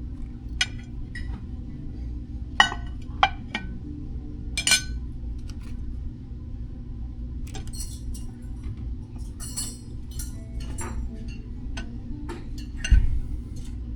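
Dishes, glasses and cutlery clinking in short, scattered knocks over a low, steady room hum, with a heavier knock near the end.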